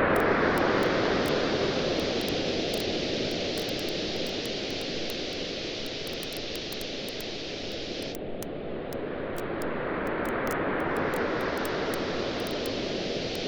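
Waves washing on a shore, swelling near the start, easing off in the middle and building again about ten seconds in, with a wood campfire crackling throughout in many small sharp pops.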